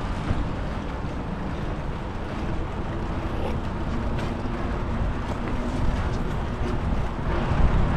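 Wind buffeting the microphone of a head-mounted camera on a moving bicycle: a steady low rumble with a faint rushing hiss over it.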